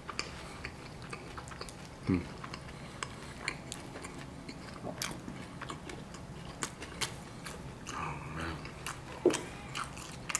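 Close-up mouth sounds of chewing a crispy fried pork belly taco: irregular small crunches and wet clicks. A soft thump about two seconds in.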